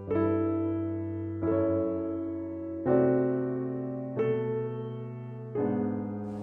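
Background piano music: slow, gentle chords, a new one struck about every second and a half and left to fade.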